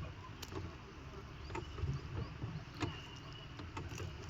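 Scattered light knocks and clicks of a small rowing boat and its oars over a low steady rumble.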